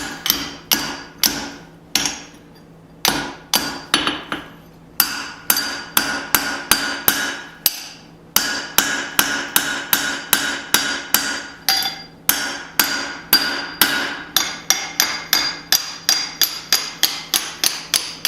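Blacksmith's hand hammer striking a small hot hatchet head on the anvil, a steady run of blows about three a second with a few short breaks, the anvil ringing after each strike.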